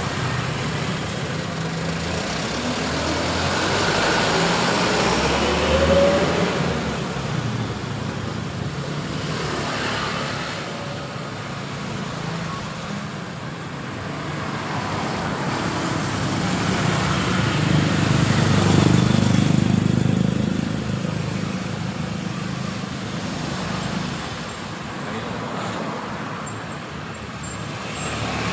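Road traffic passing: a steady wash of engine and tyre noise that swells as vehicles go by, loudest a few seconds in and again about two-thirds of the way through.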